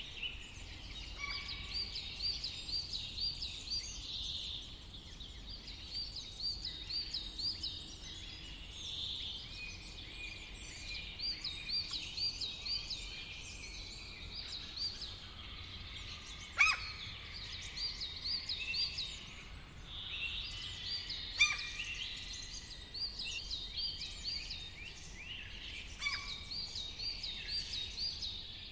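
Several songbirds singing together. One bird repeats short phrases of quick, identical high notes every few seconds, and two sharp, loud calls stand out a few seconds apart past the middle.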